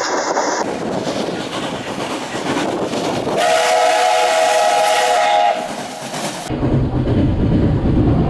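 Trains running on the track, the sound changing abruptly at several edit cuts. A train whistle sounds as a steady chord for about two seconds in the middle, and near the end a heavy, low rumble of a train passing takes over.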